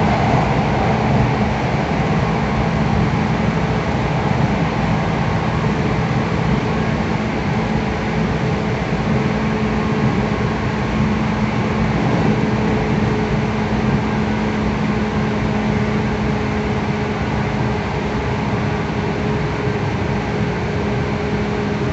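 Running noise of a JR West 117 series electric train heard from inside a passenger car: a steady rumble of wheels on rail with a steady hum over it.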